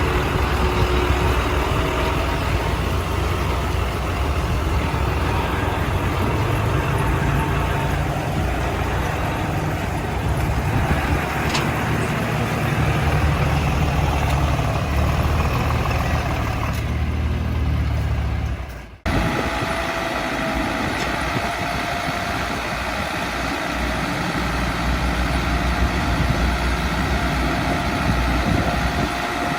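Heavy diesel engines of earthmoving machinery running steadily. About two-thirds of the way through the sound cuts out for an instant and comes back with a different, steadier engine note.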